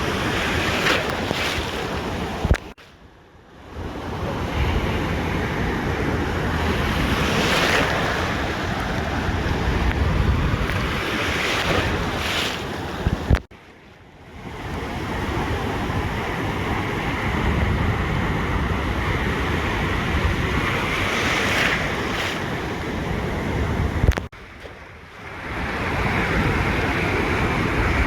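Ocean surf washing onto a beach, a continuous rush that swells and eases, with wind buffeting the microphone. Three times a sharp click is followed by a brief sudden drop in level before the surf noise returns.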